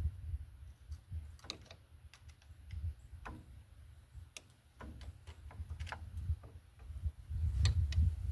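Scattered light metallic clicks and taps at irregular spacing as hand tools work a cotter pin out of a ball joint nut, with low rumbling handling noise near the start and again near the end.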